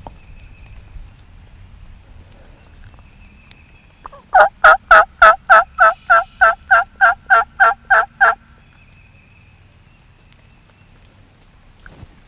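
A run of about sixteen loud, evenly spaced turkey yelps, about four a second, lasting some four seconds, over faint low rain noise.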